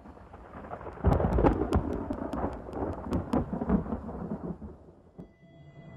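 A close thunderclap: sharp crackling about a second in over a deep rumble, which rolls on and fades away.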